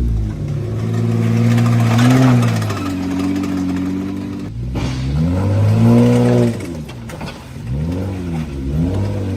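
Lifted Jeep's engine running under load, its pitch rising and falling several times as it revs up and eases off, with the deepest dips around the middle and near the end.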